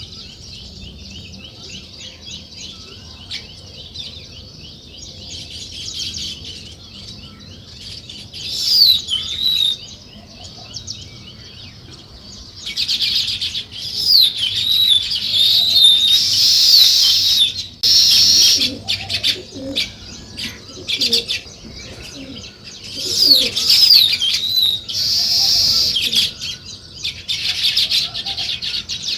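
A flock of small birds chirping in a steady, dense chatter, with louder bouts of sweeping calls about nine seconds in, from about thirteen to eighteen seconds, and again around twenty-three to twenty-six seconds.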